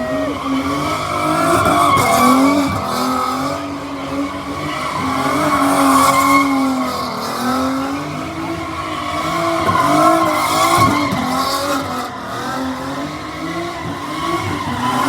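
A car doing a burnout or donuts: the engine is held at high revs, its note wavering up and down as the tyres spin and squeal. The sound swells and fades in loudness about every four seconds.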